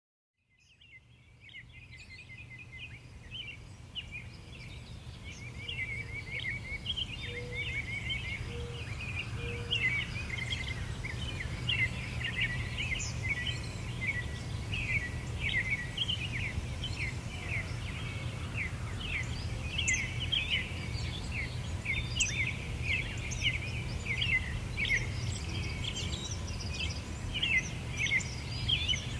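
A chorus of small birds chirping and twittering rapidly and without pause over a steady low rumble, fading in from silence over the first few seconds. Three short, lower notes sound about a third of the way in.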